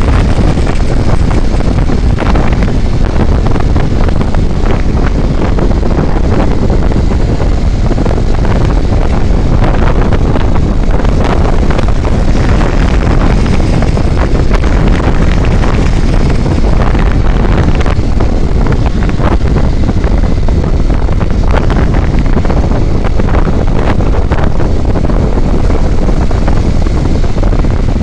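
Wind buffeting the microphone on a moving vehicle, a loud, steady rush with a heavy low rumble and gusty flutters, over the vehicle's running noise.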